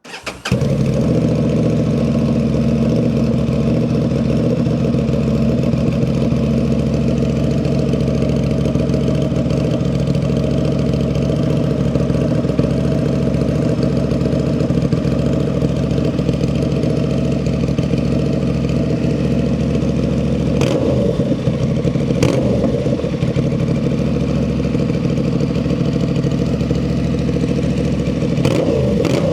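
Honda Transalp's 755 cc parallel-twin starting and idling through a Dominator MX2 slip-on exhaust with nothing blocking the outlet, with short throttle blips about three-quarters of the way through and again near the end.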